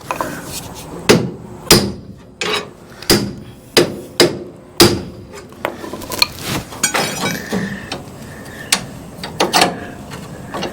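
Hammer blows on the steel frame flange of a 1966 Ford Ranchero, knocking the bent flange straight. About seven hard strikes come roughly every half second to second in the first half, each with a brief metallic ring, followed by lighter, irregular taps.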